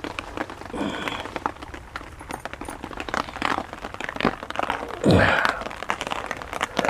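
Rain pattering on a shelter, mixed with rustling, crinkling and clicking as kit and cutlery are handled, and a brief louder low sound about five seconds in.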